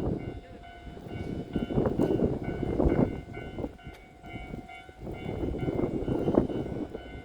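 Electric train moving through the station, its wheels clattering in uneven bursts over the track, with a few steady high whining tones held throughout.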